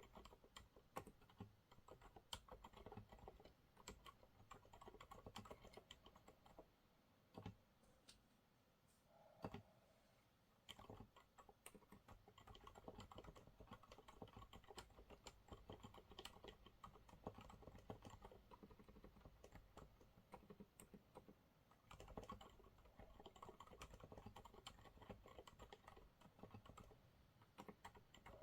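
Typing on a Monsgeek MG108W mechanical keyboard with TTC low-noise silent brown switches: quiet, dense runs of keystrokes. The runs thin out for a few seconds around the middle, broken by a couple of louder single key presses, then resume.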